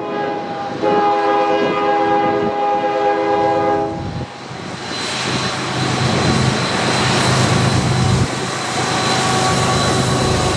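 Diesel freight locomotive's air horn sounding one chord-like blast of about three seconds, starting about a second in. It is followed by the train rolling past, a loud rumble of wheels on rail with a steady high-pitched wheel whine.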